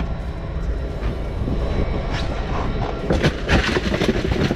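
Steady low rumble on the boat, with several knocks and clatters in the second half.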